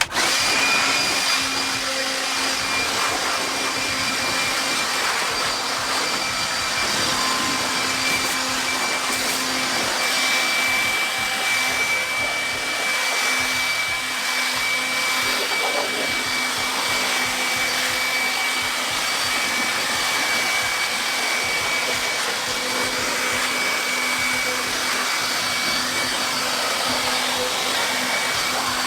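Electric blower switched on and running steadily, blasting air to dry a freshly rinsed engine bay; a steady high motor whine sits over the rushing air.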